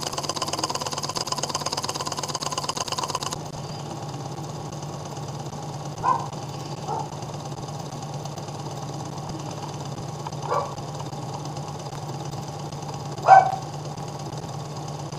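Small home-built Ross yoke Stirling engine running with a fast, even clatter that stops suddenly about three seconds in. A steady low hum follows, broken by a few short, sharp sounds, the loudest a little before the end.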